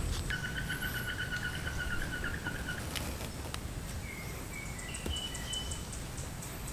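Wild birds calling: a rapid trill of evenly repeated notes for about two and a half seconds, then a few short whistled notes about four seconds in, over a faint steady insect drone.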